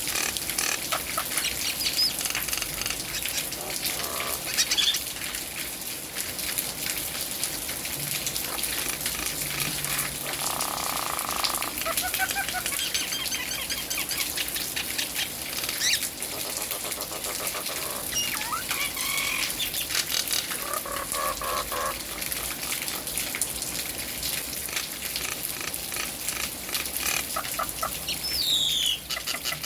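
Nias hill myna calling: scattered short whistles, squawks and gliding notes every few seconds over the steady hiss of falling rain.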